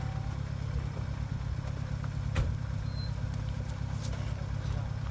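An off-road vehicle's engine running steadily, with a single sharp knock about halfway through.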